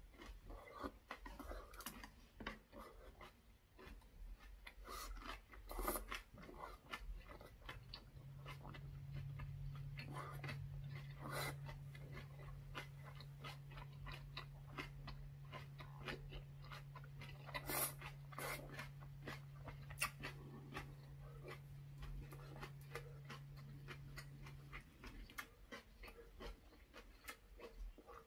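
A person chewing a mouthful of soft braised saury with aged kimchi, giving irregular wet smacks and mouth clicks. A steady low hum comes in about eight seconds in and stops a few seconds before the end.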